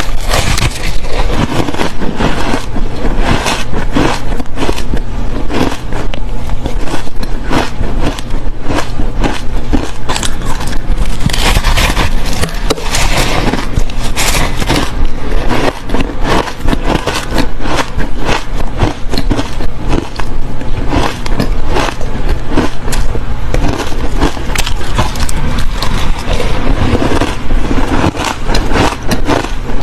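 Close-miked crunching of fluffy ice being bitten and chewed: a dense, irregular run of loud crackly crunches with no pause.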